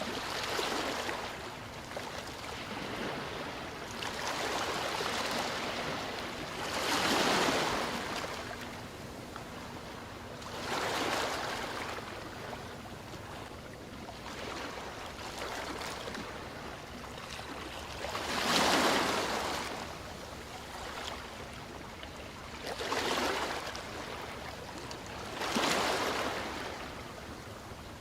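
Ocean surf: waves breaking and washing in, the sound swelling and falling back in surges a few seconds apart, the loudest about two-thirds of the way through.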